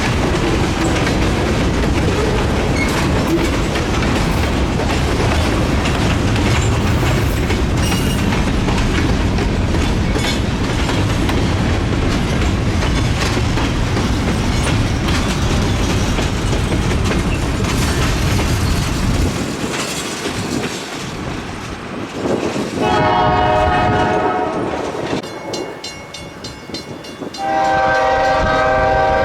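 Freight train cars rolling past with a steady rumble and clatter of wheels on the rails; the rumble falls away about two-thirds of the way through. A locomotive air horn then sounds several notes together, in one blast of about two seconds and another starting near the end.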